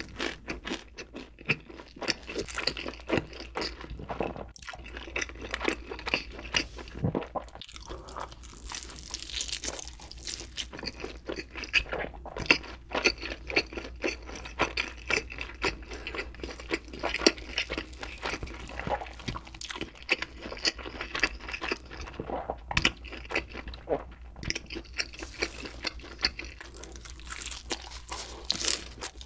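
Close-miked chewing of cheese pizza with a thick bread crust: wet mouth sounds with frequent crunchy bites and many short clicks and crackles. Near the end comes a bite into a barbecued chicken wing.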